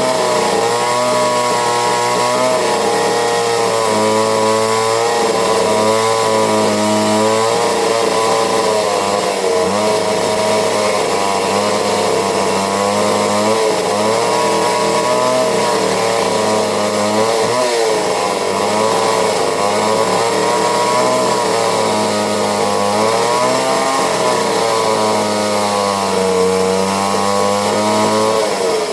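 McCulloch two-stroke chainsaw running continuously, its engine speed wavering up and down throughout.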